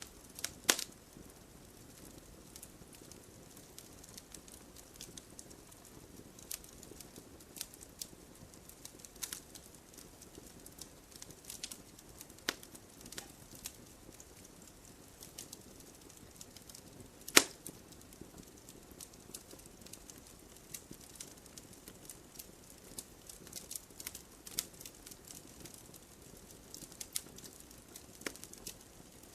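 Wood fire burning in a fireplace, crackling with scattered small pops over a faint steady hiss, and two louder snaps: one just under a second in and one a little past the middle.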